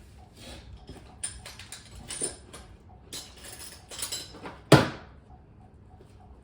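Steel sockets clinking and rattling as they are picked through and tried for size, with short metallic rings and one loud sharp clack about three-quarters of the way in.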